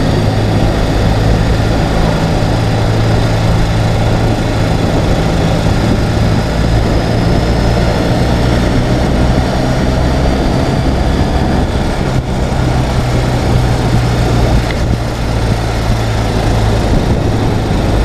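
Ural sidecar motorcycle's air-cooled flat-twin engine running steadily on the move, with wind rushing over the microphone.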